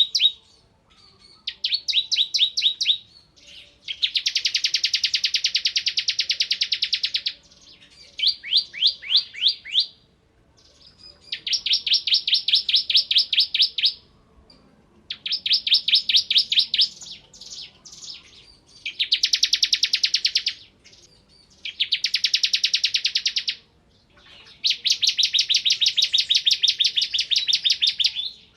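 Bar-winged prinia (ciblek kristal) singing in repeated bursts of rapid, high trills, each one to three seconds long with short pauses between. Some bursts are dense and buzzy, others made of distinct quick notes.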